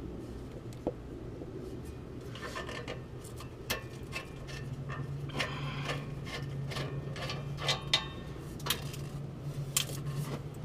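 Irregular metal clicks, knocks and scraping as a bolt and a welded exhaust hanger are worked by hand against the truck's spring shackle. The hanger won't go in: its edges bind and need grinding down.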